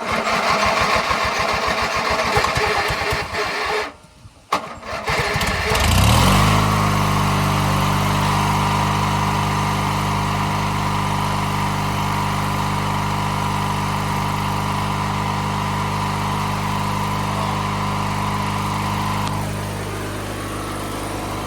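1997 MTD Yard Machines riding mower engine cranking on its starter, stopping briefly, then cranking again and catching about six seconds in. It then runs steadily, a little quieter near the end. The hard start comes from the fuel lines, filter and carburetor having run completely dry.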